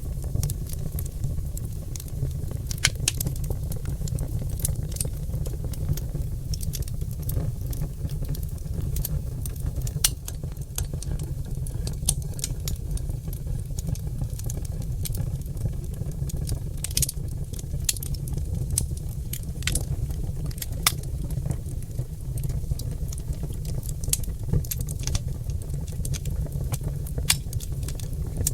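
Oak logs burning in a fireplace, crackling with sharp, irregular pops over a steady low rumble of the fire.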